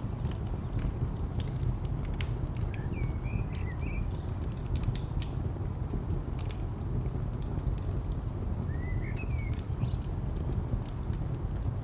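Wood fire crackling with frequent sharp pops over a steady low rumble of distant traffic. Small birds chirp briefly about three seconds in and again near nine seconds.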